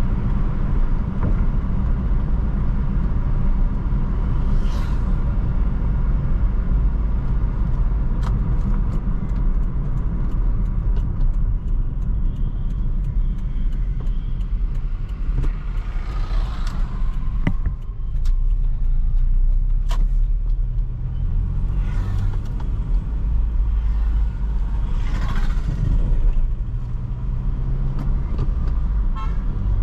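2004 Toyota Corolla on the move: steady engine and road rumble, with a few brief louder rushing swells.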